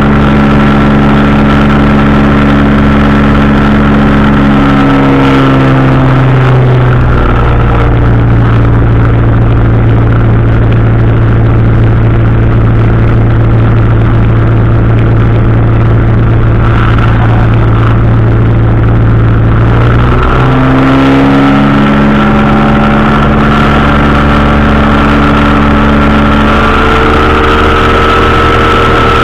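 Powered parachute's engine and propeller running loud and close. The pitch drops about six seconds in as the throttle is eased back, holds steady, then climbs again about twenty seconds in as power is added.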